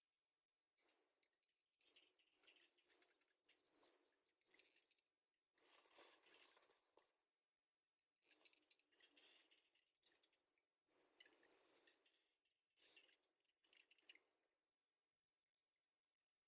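Small birds chirping: short, high chirps in quick clusters of two to five, separated by short pauses, with a brief rustling noise about six seconds in.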